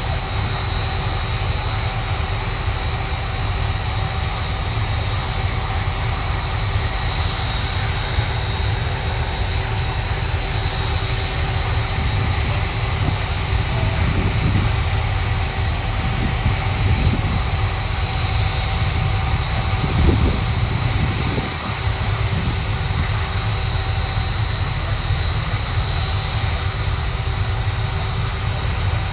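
Red Arrows BAE Hawk T1 jets' turbofan engines running steadily on the ground after start-up, a constant high whine with several held tones over a low rumble.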